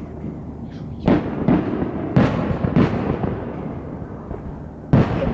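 Aerial fireworks shells bursting overhead: a series of booms, some about a second apart, with a rumbling tail after each and a last loud one near the end.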